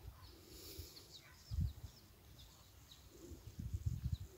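Faint bird chirping: many short, high chirps scattered throughout, with a few low rumbles, about a second and a half in and again near the end.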